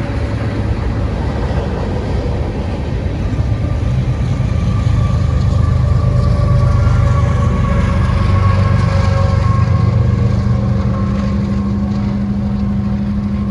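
A large engine running close by: a loud, steady low rumble with a droning tone, swelling a little midway and cut off abruptly at the end.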